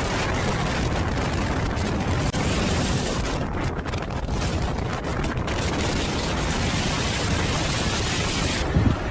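Strong sandstorm wind blowing hard against the microphone: a steady, dense rush of noise with a heavy low rumble. The high hiss drops away near the end.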